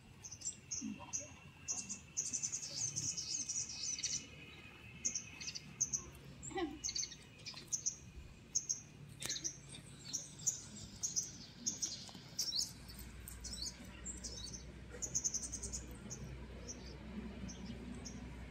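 Birds chirping: many short, high chirps in quick succession. A low steady rumble comes in about two-thirds of the way through.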